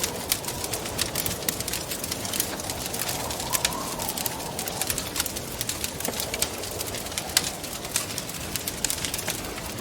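Wood fire crackling with many sharp pops and snaps over a steady hiss of wind. About three seconds in, a gust gives a soft moaning tone that rises and falls, and a fainter one follows near the end.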